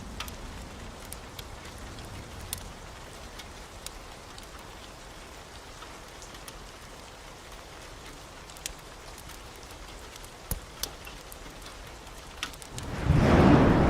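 Steady heavy rain falling, with a few sharp ticks. Near the end a loud rumble of thunder breaks in suddenly.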